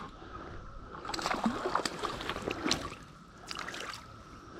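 Water splashing and sloshing in a stream as a hooked bass is brought in, with scattered sharp splashes and clicks, loudest in the middle stretch, over steady flowing water.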